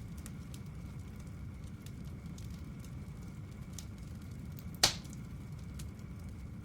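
Bonfire crackling: scattered small pops over a low steady rumble, with one sharp, loud pop about five seconds in.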